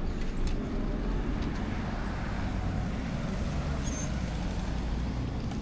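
Low, steady rumble of road traffic, with a brief high squeak about four seconds in.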